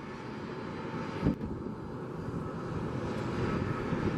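Jet airliner engines at takeoff power, a steady noise that grows louder toward the end as the plane runs down the runway. A single short knock about a second in.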